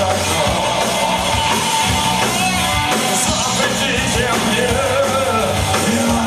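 Punk rock band playing live and loud, with electric guitar and a voice singing over the band.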